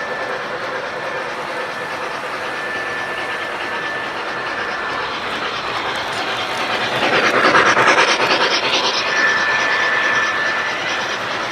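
Model train running along the track, a steady rolling clatter with a thin high whine, growing louder for a couple of seconds about seven seconds in as it passes close by, then easing off.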